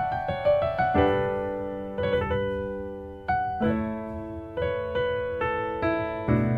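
Background piano music: a melody of single notes leading into struck chords that ring and fade, about one new chord a second.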